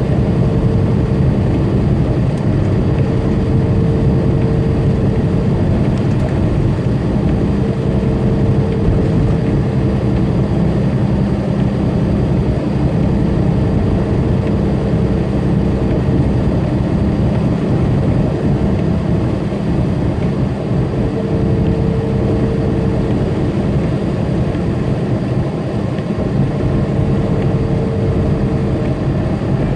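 Tractor-trailer's diesel engine and road noise droning steadily from inside the cab while cruising on the highway. A higher steady tone comes and goes over the low hum.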